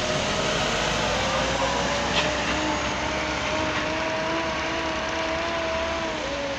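Heavy quarry machinery engine running steadily, with a wavering whine over the engine noise and one sharp click about two seconds in.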